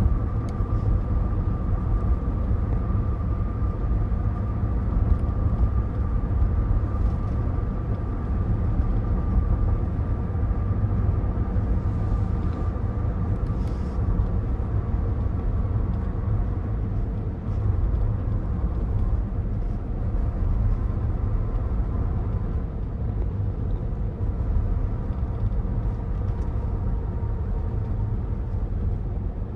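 Cabin noise of a 2024 Cadillac Escalade ESV on the move: a steady low rumble of road and engine, with a faint steady whine over it.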